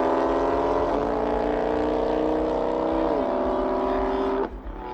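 Car engine accelerating hard in a drag race, its pitch climbing through each gear and dropping at upshifts about a second in and a little after three seconds. The engine note cuts off sharply near the end as the car lifts off or pulls away.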